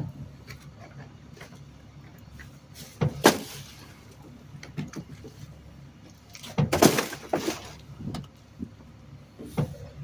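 Garbage truck engine running steadily at idle, with a sharp loud knock about three seconds in and a short run of loud knocks around seven seconds.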